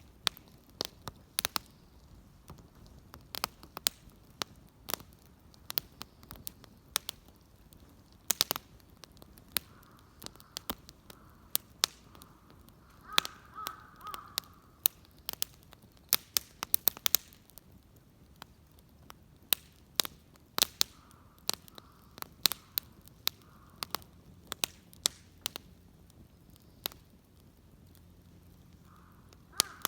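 Wood bonfire crackling with frequent sharp, irregular pops, while crows caw a few times in the background.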